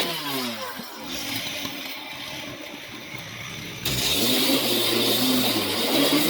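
An engine drops from high revs in the first half second, then runs slower and quieter. A little under four seconds in it is throttled up sharply and revs high again.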